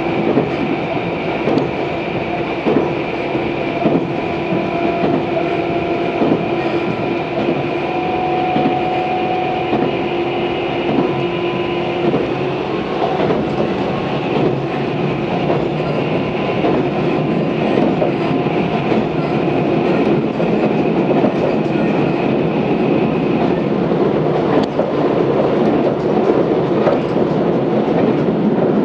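Tobu 634 series train heard from inside the car while running between stations: a steady rolling rumble with the wheels clicking over rail joints. A steady whine in the mix fades out partway through.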